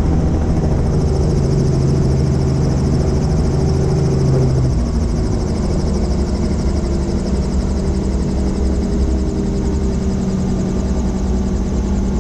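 Helicopter rotor and engine running steadily at a loud, even level; a low tone in the drone shifts up in pitch about five seconds in.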